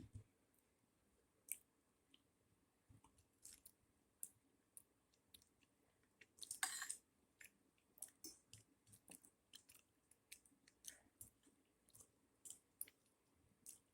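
Faint chewing and mouth sounds of someone eating, with scattered small clicks and a brief louder crunch partway through.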